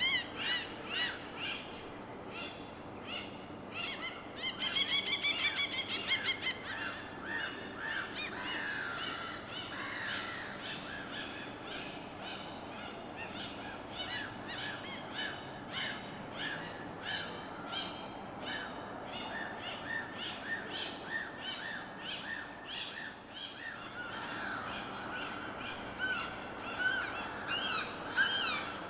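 A chorus of many birds calling and chirping in quick, repeated notes, with a fast trill about five seconds in and louder high calls near the end, over a steady wash of water.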